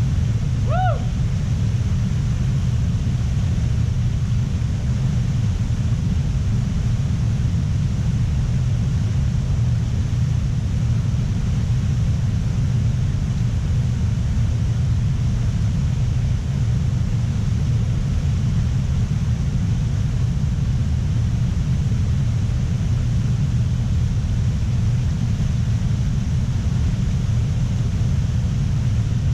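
A steady low rumble, unchanging in level, with a faint high hiss above it. A brief rising whistle-like tone sounds about a second in.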